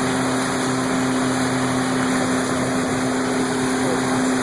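Motorboat engine running steadily at speed, an even hum over a steady noisy rush.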